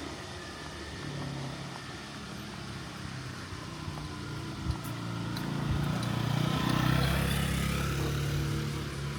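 A motor vehicle's engine running close by on the street, growing louder to a peak about six to seven seconds in, then easing off as it passes. A single sharp click sounds about halfway through.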